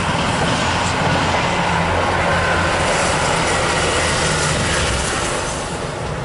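Diesel multiple unit passenger train passing close by: a steady low engine drone with wheel and rail noise, easing slightly near the end.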